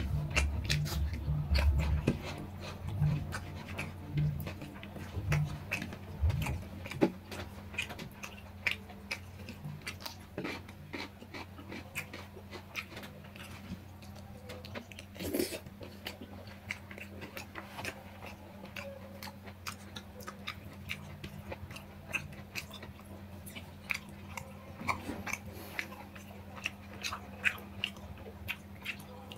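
A person chewing rice and curry eaten by hand, with many irregular wet mouth clicks and smacks. A steady low hum runs underneath.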